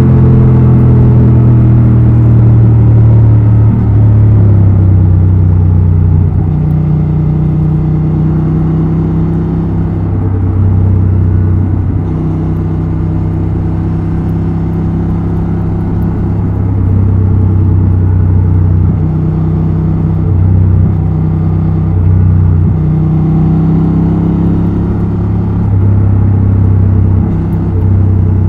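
Honda XL750 Transalp's 755 cc parallel-twin engine and exhaust running under way, its note stepping up and down with throttle and gear changes, highest and loudest in the first few seconds.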